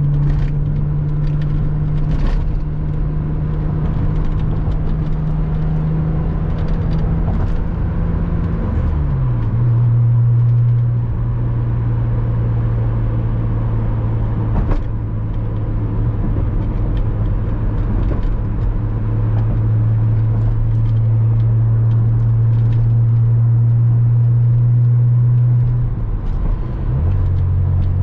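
Porsche Boxster 986's flat-six engine running at steady revs while driving, its note dropping in pitch twice, about nine seconds in and again near the end, as the revs fall.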